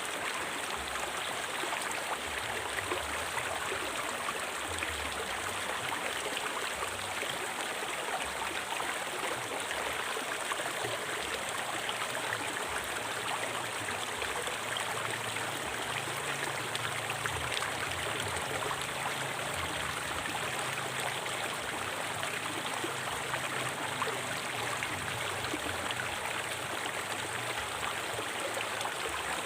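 River water flowing over stones in a steady, even rush, with no pauses or changes.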